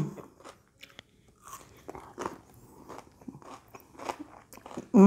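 A mouth chewing a bite of raw green capsicum (bell pepper): a run of irregular crunches.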